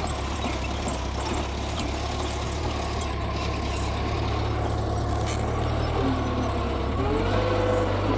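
Mitsubishi G2 bulldozer's diesel engine running steadily with a low hum. About seven seconds in its note shifts and a higher whine comes in.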